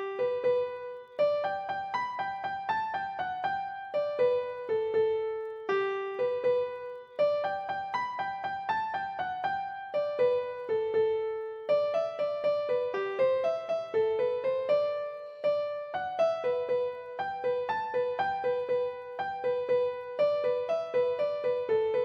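Background music: a solo piano melody of single notes and chords, played at a gentle steady pace.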